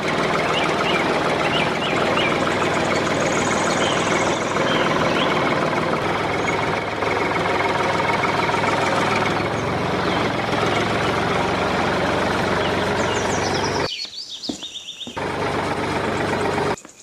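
A motor running steadily with a dense, rattling noise, dropping out briefly near the end, then starting again and cutting off suddenly.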